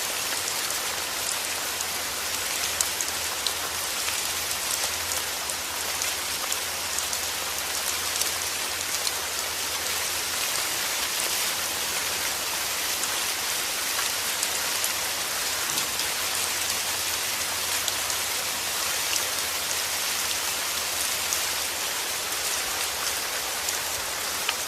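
Heavy rain falling steadily, with the fine patter of many drops on a surface.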